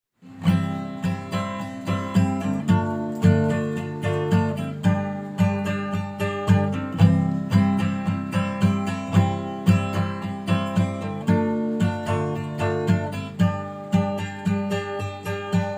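Acoustic guitar with a capo, strummed in a steady rhythm through the song's intro: repeated ringing chord strums, several a second.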